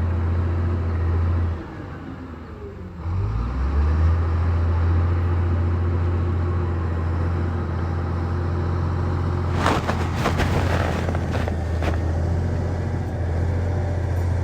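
Diesel engine of heavy earthmoving machinery running steadily under load. It dips in level about one and a half seconds in, then revs back up a second later. A run of sharp metallic clanks comes about ten seconds in.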